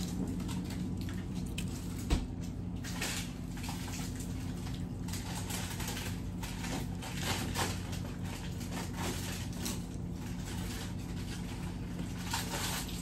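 Close-up wet chewing and mouth clicks of someone eating crab meat, with a sharp thump about two seconds in. A steady low hum runs underneath.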